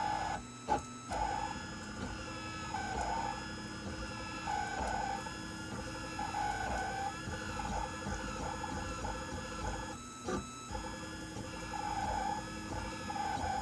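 Printrbot Simple 1403 3D printer running a print, its stepper-driven axes whining in short repeated runs as the head moves back and forth, with a steady mechanical hum beneath. The whine is the fault being shown, which the owner believes comes from the X-axis movement. The sound briefly drops out twice, once with a sharp click.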